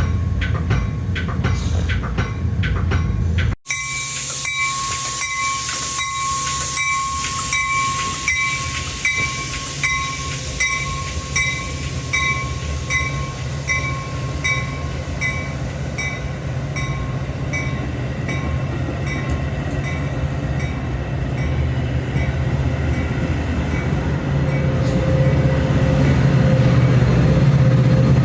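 A railroad warning bell ringing steadily, about two strikes a second, over the low rumble of a train. The rumble grows louder near the end.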